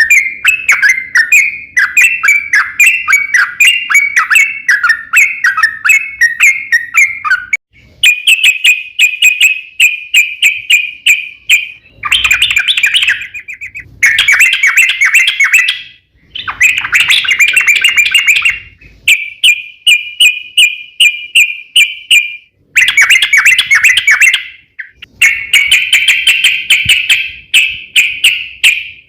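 Yellow-vented bulbul (trucukan) singing a long, fast, chattering song: runs of rapid repeated notes in phrases a few seconds long, with short breaks between them.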